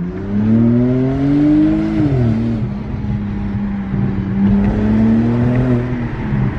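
A BMW 128i's N52 inline-six with a muffler delete accelerating hard through the gears, heard from inside the cabin. The engine note climbs, drops at a gear change about two seconds in, then climbs again and falls near the end.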